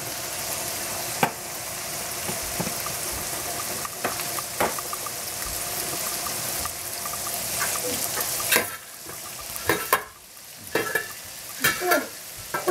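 Steady sizzling hiss of cooking on a gas stove, with scattered knocks and clicks; near the end, diced bacon sizzles in a frying pan as a wooden spoon stirs and taps it.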